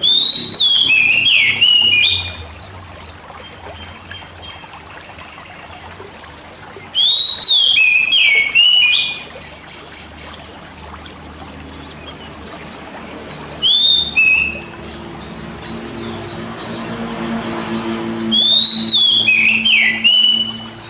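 Oriental magpie-robin (kacer) singing four short phrases of clear whistles, with quick rising and falling notes, several seconds apart. Under them is a steady background of trickling water.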